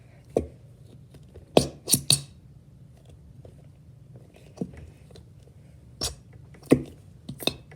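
A series of short, sharp clicks and knocks at irregular intervals, about eight in all, from objects being handled at close range.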